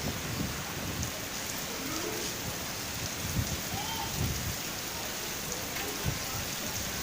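Steady rain falling and pattering on surfaces, with occasional low thumps.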